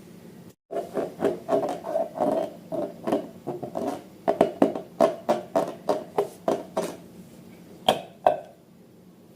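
Slime or balloons being handled by hand: a quick run of short squishy strokes, about three a second, then two sharper snaps.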